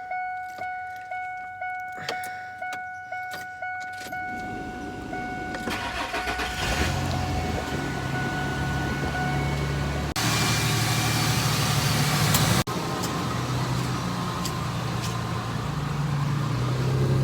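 Ford F-150's 4.2-litre V6 starting cold after sitting about a week: a dashboard warning chime dings about twice a second, then the starter cranks and the engine catches and settles into a fast idle. Partway through, a louder rushing stretch cuts off sharply.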